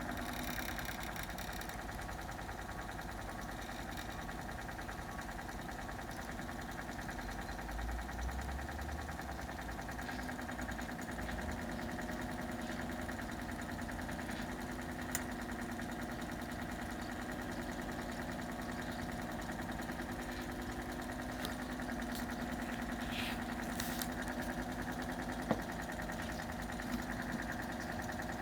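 1974 Zoppas Superautomatic 242 washing machine running steadily near the end of its 80 °C white-wash programme: a continuous motor hum with a held tone, with a couple of light clicks.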